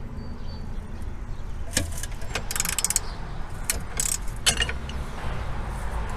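Metal hand tools clinking and clicking while working on a car wheel, with a quick run of clicks about two and a half seconds in, over a low steady rumble.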